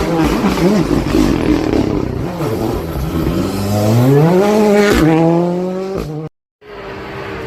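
Rally car engine at high revs, its pitch dipping and then climbing steeply as it accelerates, with two sharp cracks about five and six seconds in. The sound drops out completely for a moment near the end, then engine noise resumes.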